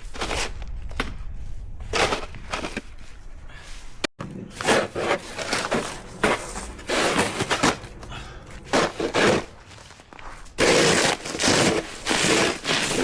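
Snow shovel scraping and pushing snow across pavement in repeated strokes, with a low rumble under the first few seconds.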